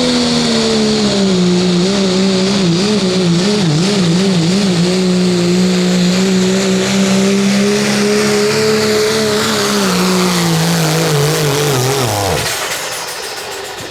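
Diesel pickup truck engine at full throttle, pulling a sled in a 2.6 diesel truck pull. The engine note wavers for a few seconds, holds steady, then falls in pitch and dies away near the end as the engine winds down.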